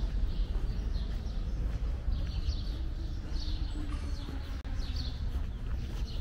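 A bird chirping repeatedly, short high calls about once a second, over a steady low rumble.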